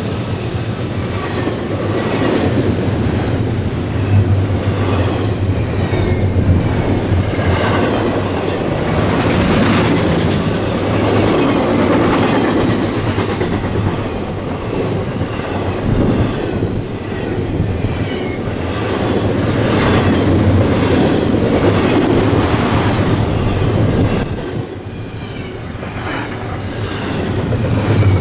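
Freight train cars rolling past at speed, wheels clicking steadily over the rail joints with a continuous rumble, easing briefly near the end before building again.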